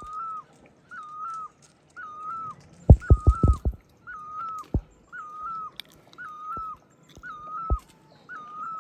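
An animal's short, high whining call, repeated evenly about once a second. A quick cluster of knocks comes about three seconds in, with single knocks later.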